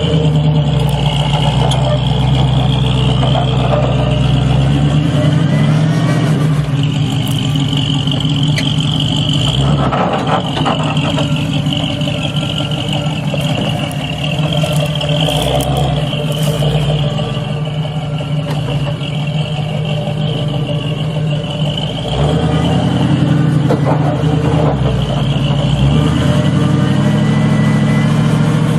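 An off-road 4x4 vehicle's engine running steadily while crawling over rough trail, its note shifting a few times with the throttle, with a few sharp knocks midway.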